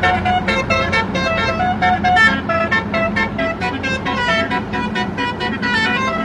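Truck's musical multi-tone horn (Basuri type) playing a fast tune of short notes that step up and down, over a steady low hum.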